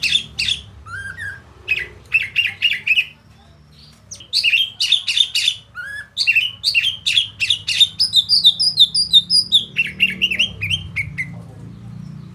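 A caged songbird singing a fast, varied song of quick repeated notes in changing phrases, with a short pause about three seconds in and a run of higher, thinner notes past the middle.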